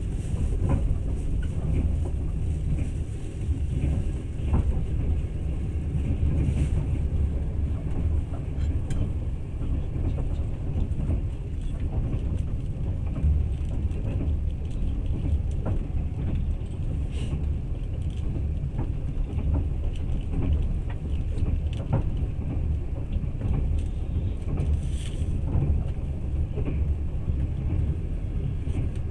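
Passenger train running along the line, heard from inside the carriage: a steady low rumble of wheels on rails, with a few faint clicks scattered through.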